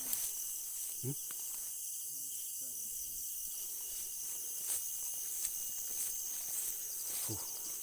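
Steady shrill chorus of night insects, crickets among them, with a few brief low vocal sounds near the start and near the end.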